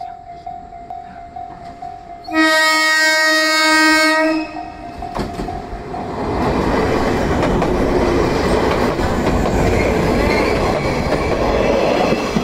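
A JR 115-series electric train in orange-and-green Shonan livery sounds its horn once, for about two seconds, beginning a little after two seconds in. Under it the level-crossing warning bell rings steadily. From about six seconds the train passes close by with loud wheel-on-rail noise.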